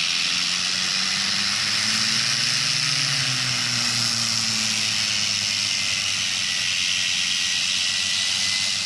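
Aircraft engine droning under a loud steady hiss; the engine pitch rises and then falls a few seconds in.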